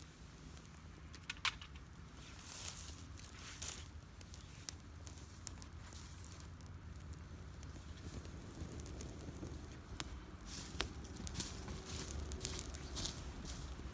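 Small wood campfire crackling, with scattered sharp pops and snaps, over a low steady rumble.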